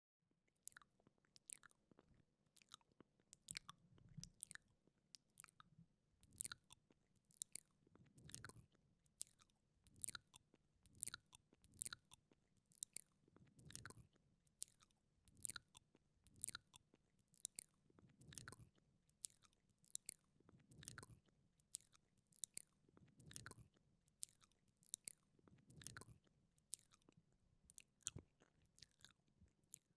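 Wet mouth sounds close to a binaural microphone: quiet, sharp tongue clicks and lip smacks, about one or two a second, with a soft low swell every two to three seconds.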